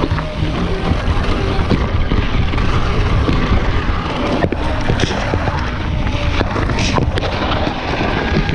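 Wind noise buffeting the microphone while riding, a loud steady rumble, with faint music playing underneath.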